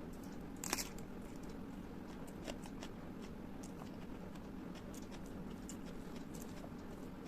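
Close-miked eating sounds: chewing with scattered mouth clicks and smacks, and one louder click under a second in.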